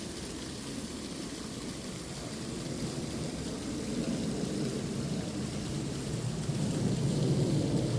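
Mountain valley stream rushing over rocks: a steady rushing noise that grows louder in the second half.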